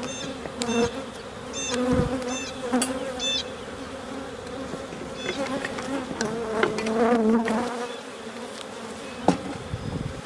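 Many Carniolan honey bees buzzing around an opened hive, the buzz wavering in pitch as bees fly near; this is a defensive colony. A few light clicks and one sharp knock about nine seconds in.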